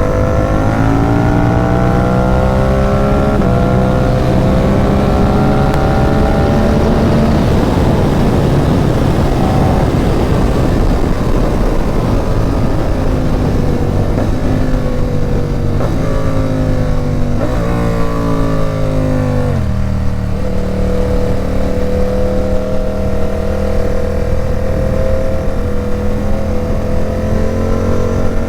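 Loud Ducati Supersport 950 S L-twin engine through an aftermarket Competition Werkes exhaust, heard while riding. It revs up through the gears with a shift a few seconds in, then slows with stepped downshifts around the middle. From about two-thirds of the way through it runs at a steady pitch.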